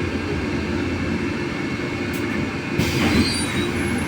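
Cabin noise inside a MAZ-303E10 electric bus: a steady low rumble with a faint high whine. About three seconds in, a sudden hiss of air.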